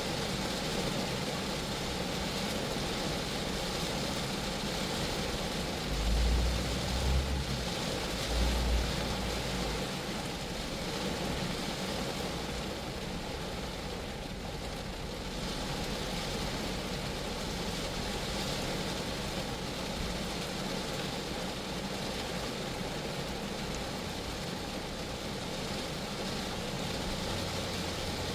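Steady rain falling on a Geo Metro car, an even hiss of drops on the body. A low rumble swells twice between about six and ten seconds in.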